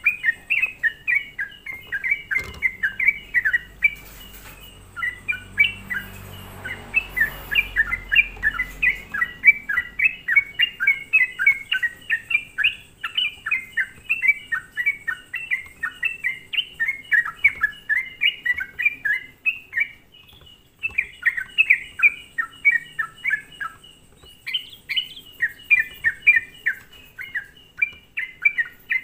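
Yellow-vented bulbul (cucak trucuk) singing vigorously: long runs of quick, bubbling chirped notes that break off briefly a few times. It is a "gacor" lure song, the kind played to provoke other trucuk birds into answering.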